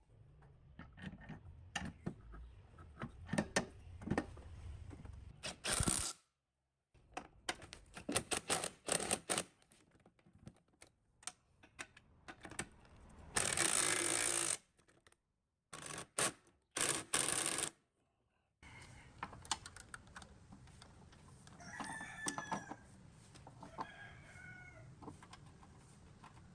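Short edited stretches of workshop handling noise: scattered clicks and knocks, with a few louder bursts of hiss-like noise, the longest about a second long midway. Near the end a rooster crows in the background, two drawn-out calls about three seconds apart.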